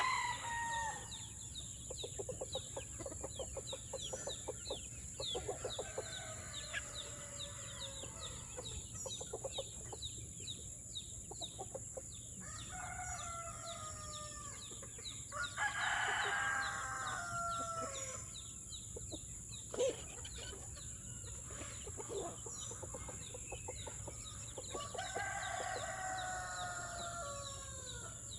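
Roosters crowing three times, twice in a row around the middle and once near the end, among a flock of chickens clucking and peeping.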